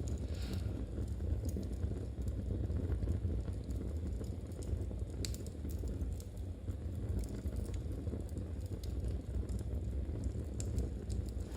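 Wood fire burning in a fireplace: a steady low rumble with scattered small clicks and crackles, and a short soft rustle near the start.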